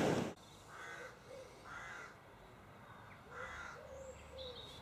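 A bird calling: three short calls spaced a second or more apart, with faint higher chirps near the end.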